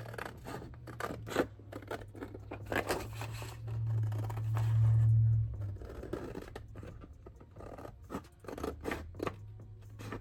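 Scissors snipping through paper in a run of short cuts. A low hum underneath swells a few seconds in and then fades back.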